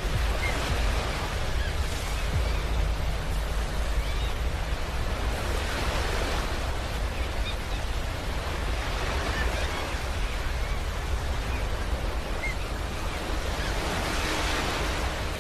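Ocean surf breaking and washing on a beach: a continuous rushing hiss over a low rumble, swelling as a wave comes in every four to five seconds.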